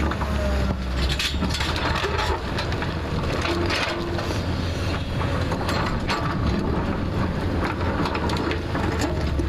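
JCB backhoe loader's diesel engine running steadily under load, with many short irregular crunches and scrapes as the bucket cuts into soil and rock of a hillside.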